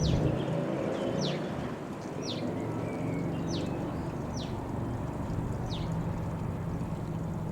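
A Skyranger Nynja ultralight's Rotax 912 engine dies away to a distant steady drone after passing overhead. Over it, a bird repeats a short, high, falling call roughly once a second.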